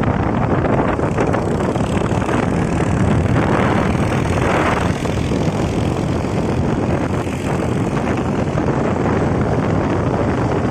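Steady wind rush buffeting the microphone of a moving bike, with the rumble of the ride underneath.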